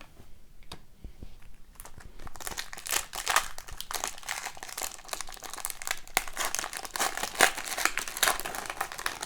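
Foil trading-card pack wrappers crinkling and rustling as they are handled. The small crackles are sparse at first and become a dense, continuous run from about two seconds in.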